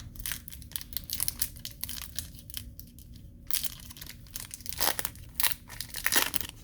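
Crinkling and rustling of an Upper Deck hockey trading-card pack being handled and opened: a quick run of sharp crackles, with louder bursts about five and six seconds in.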